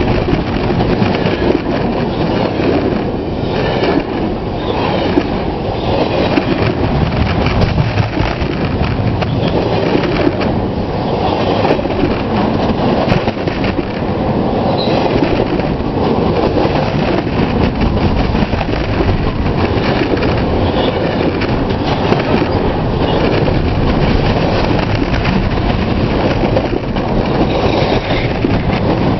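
Canadian Pacific train cars rolling past close by on a bridge: a loud, steady rumble and clatter of steel wheels on the rails.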